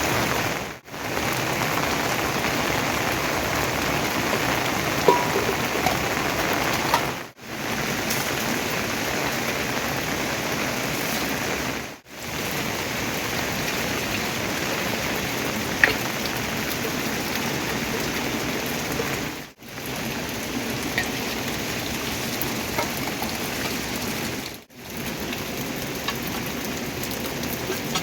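Steady rain falling, a dense even hiss with an occasional single drop ticking; the sound cuts out briefly five times.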